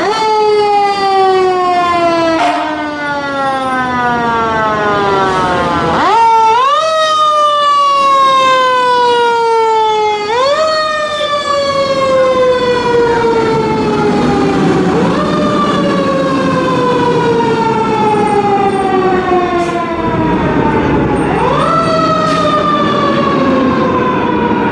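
Fire engine's mechanical siren being wound up again and again: each time the pitch jumps up quickly and then slowly coasts down over several seconds, re-triggered about every four to six seconds.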